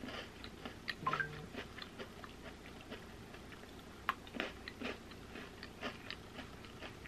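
Close, faint crunching and chewing of a white-chocolate cookies-and-cream Pepero biscuit stick, a run of small crisp crackles as it is bitten and chewed.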